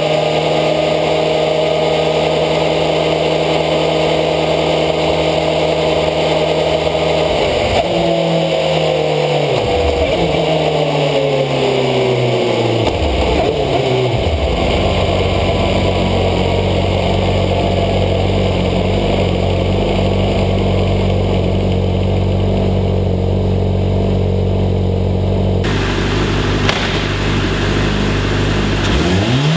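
Motorcycle engine running at steady high revs, then the revs falling away in several downward sweeps about a quarter of the way in. It settles to a steady lower running note and starts to rev up again right at the end.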